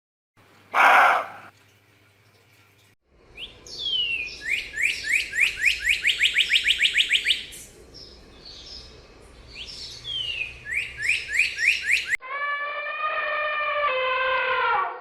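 A songbird singing runs of rapid, descending whistled notes, about six a second, in two bursts. A brief harsh noise comes about a second in, and near the end a long, steady, pitched animal call takes over.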